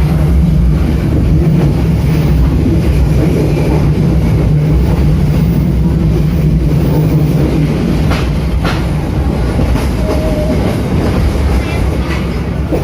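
Passenger train running on the rails, heard from on board as a loud, steady low rumble. Two sharp clicks come from the wheels about eight seconds in.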